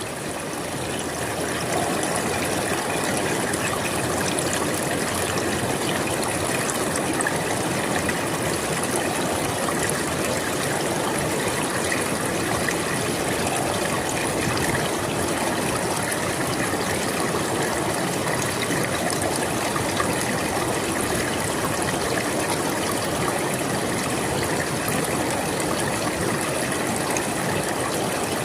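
A flowing river, its water rushing steadily and evenly.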